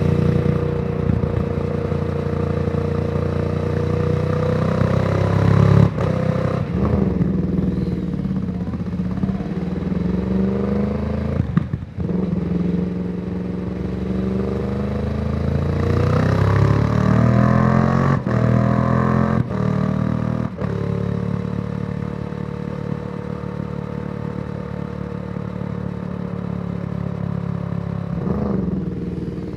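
2014 Yamaha YZF-R1's crossplane inline-four engine through a Yoshimura exhaust, under way on the road. Its pitch rises and falls with the throttle, with brief sharp breaks at gear changes, then holds steady for a while near the end.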